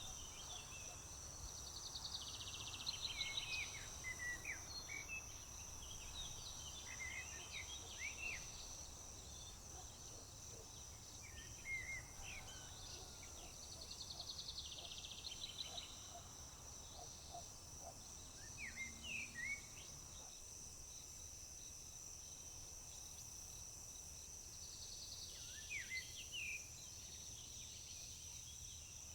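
Rural summer ambience: a steady high-pitched insect drone, with birds calling and singing over it. One bird's buzzy, trilled song comes back about every twelve seconds among short chirps, above a faint low rumble.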